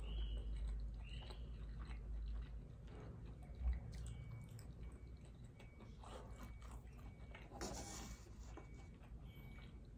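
Close-miked biting and wet chewing of food, with small mouth clicks, a single low thump about a third of the way in, and a brief rustling scrape near the end as food is picked up by hand.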